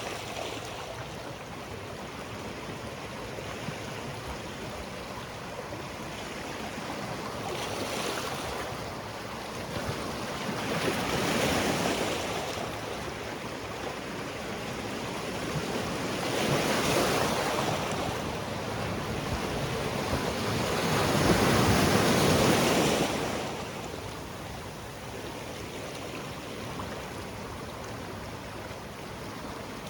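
Sea waves washing onto a rocky shore, a steady surf hiss with swells about 11–12 s, 17 s and 21–23 s in as waves break, the loudest near the end of the third swell.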